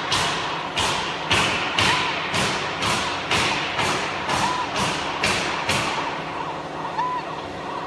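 A series of sharp knocks, about two a second, that stop about six seconds in, over a steady machine hum with a few short beeps.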